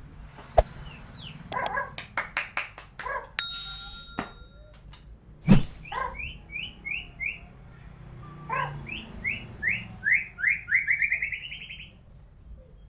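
White-rumped shama singing a varied, agitated song: sharp clicking notes and whistled phrases, then runs of short repeated notes, the last series quickening and rising in pitch before it stops near the end. Song of this kind is what a shama gives when it sees a rival.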